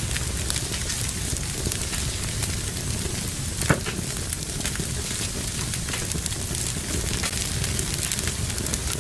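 Fire in a fireplace crackling steadily with many small snaps, and one louder pop a little under four seconds in.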